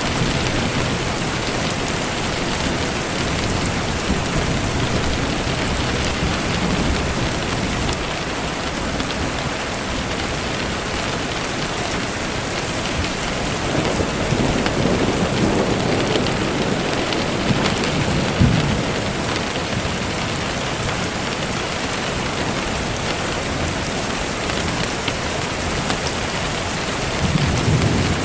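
Steady heavy rain falling, a constant hiss, with low rolls of distant thunder about halfway through and again near the end.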